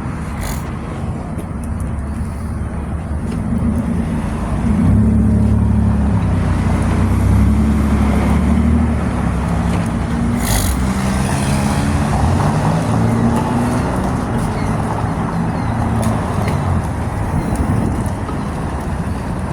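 Truck engine running, growing louder about four seconds in and shifting in pitch for several seconds before settling, with a short hiss about ten and a half seconds in.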